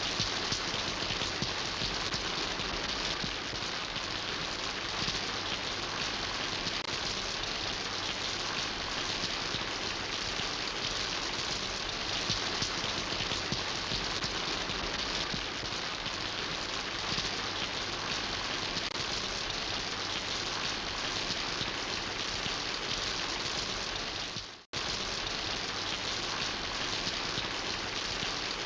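Steady rain falling, an even patter of many drops. About 25 seconds in it fades out for a moment and comes straight back.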